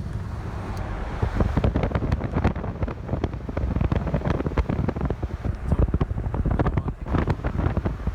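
Wind buffeting the microphone in irregular gusts over the rumble of a moving vehicle.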